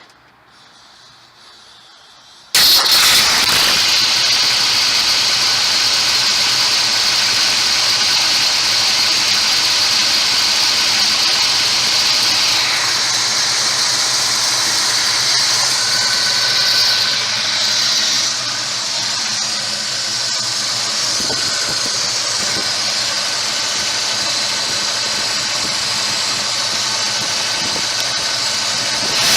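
Ford Mustang Mach 1's V8 engine, running after a sudden start about two and a half seconds in. It has a strong high hiss, and dips slightly in level partway through.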